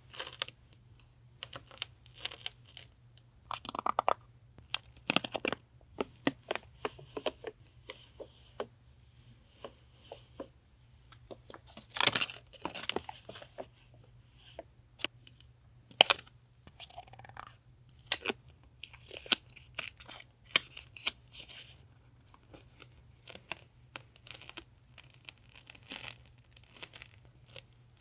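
Stationery packaging being torn and crinkled by hand: a run of short, sharp tearing and rustling sounds at irregular intervals.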